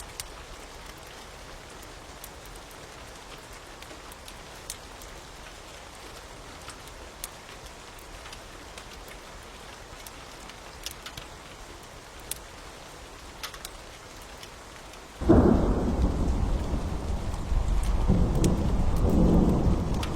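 Steady rain with scattered sharp crackles and pops from a wood fire; about fifteen seconds in, a loud low rumble of thunder breaks in suddenly and keeps rolling.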